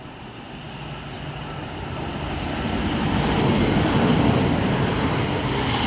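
A single Class 730 electric multiple unit passing through the station, its running noise swelling to a peak about four seconds in and easing slightly near the end.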